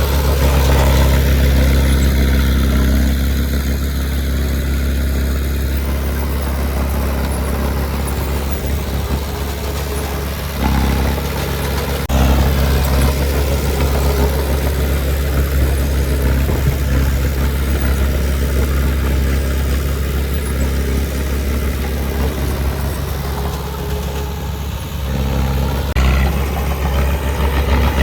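Diesel engine of a piece of heavy earthmoving equipment running steadily at a low, even note, with a few changes in engine speed partway through and near the end.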